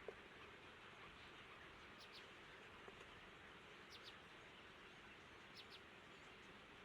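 Near silence: a faint steady hiss with a few faint, short high chirps in pairs, about every two seconds, and a small click at the very start.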